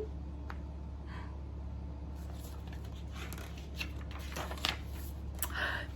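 Paper rustling as a picture book's page is turned, with a few light clicks, over a low steady hum.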